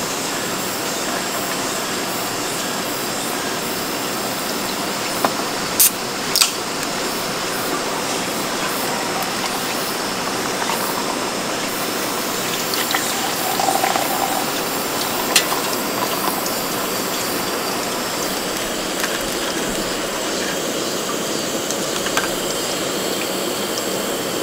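Heavy rain pouring steadily onto a camping tarp: a constant, even hiss. A few sharp clicks break through it about five to six seconds in and again around fifteen seconds.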